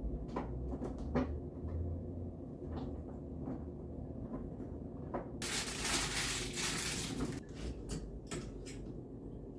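Scattered knocks and clicks of a door and things being handled, with about two seconds of rustling hiss a little past the middle.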